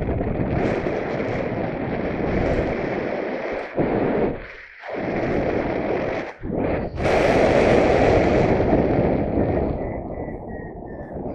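Strong wind buffeting the microphone in heavy gusts, dropping away briefly twice and then coming back harder.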